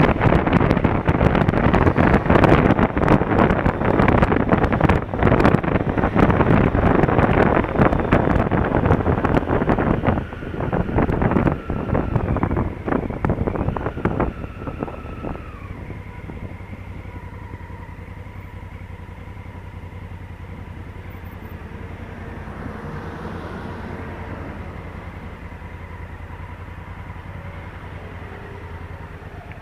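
Honda Africa Twin CRF1000L on the move with heavy wind rush on the microphone, which eases over the middle of the stretch as the bike slows. It then settles to a quieter steady low engine running, with a faint steady whine above it.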